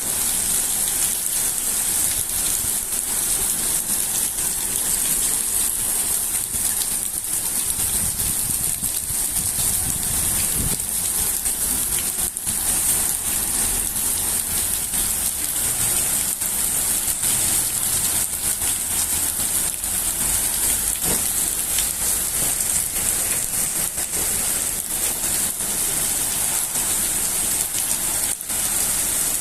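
Steady summer rain falling, an even hiss without a break.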